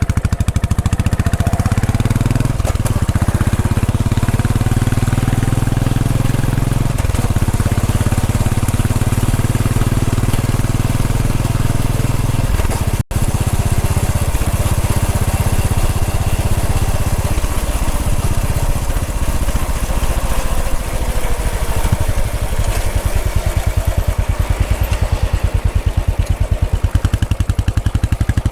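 Royal Enfield Bullet 500's single-cylinder engine running steadily under way, its firing pulses thudding evenly. The sound cuts out for an instant about thirteen seconds in.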